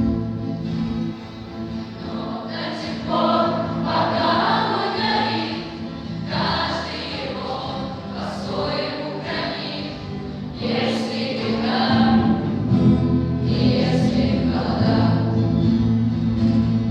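An ensemble singing together in chorus over instrumental accompaniment with sustained low held notes.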